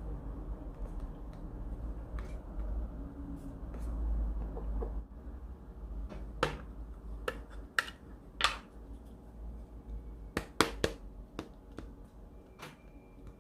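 Paper and stationery being handled on a desk: a scattered run of sharp clicks and taps, most of them in the second half, over a low steady hum.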